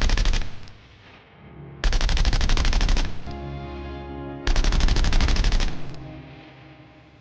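Woodpecker drumming: three rapid bursts of even knocks, each about a second long. A short pitched sound comes between the second and third bursts.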